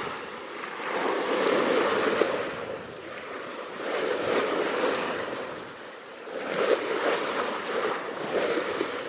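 Sea waves washing in, swelling and fading three times, about every three seconds.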